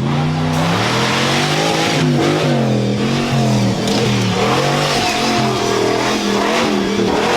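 Off-road race car's V8 engine running hard, its pitch rising and falling again and again as the driver accelerates and eases off along the course.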